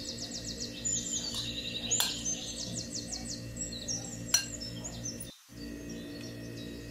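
Songbirds chirping and trilling in quick high runs over a soft steady background hum. Two light clicks, one about two seconds in and one just past four seconds, fit a metal fork touching a glass bowl.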